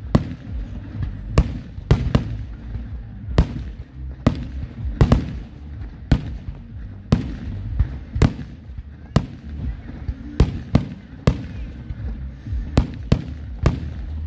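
Fireworks display: aerial shells bursting in a run of sharp bangs at irregular intervals, roughly one or two a second, over a continuous low rumble.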